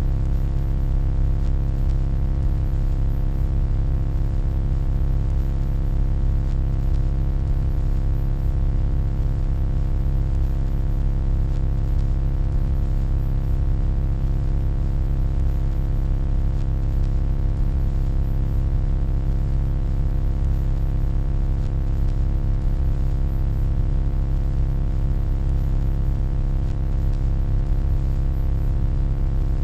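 Steady electronic hum: a deep, constant drone with many fixed tones stacked above it and a faint high whine, unchanging throughout.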